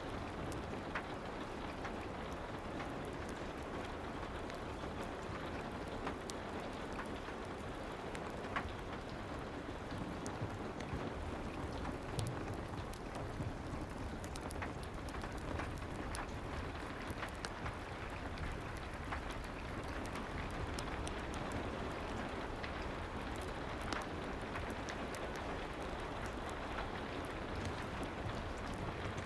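Soft steady rain falling, an even hiss with scattered faint drop-like clicks.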